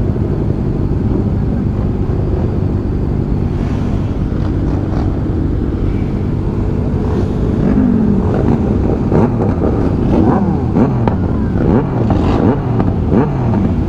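Motorcycle engines running together on a group ride. About halfway through, several engines start revving up and down over one another.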